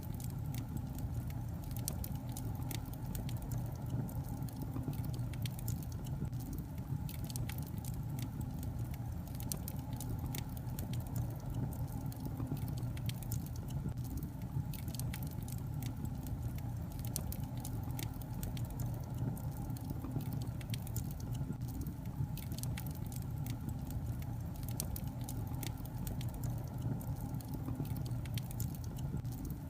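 Wood logs burning in a fireplace: a steady low roar of the flames with frequent, irregular sharp crackles and pops from the burning wood.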